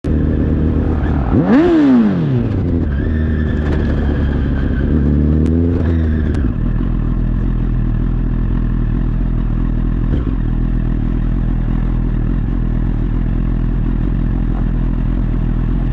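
Honda CBR1000RR Fireblade's inline-four engine revving up and back down quickly twice in the first several seconds, then running at a steady low note.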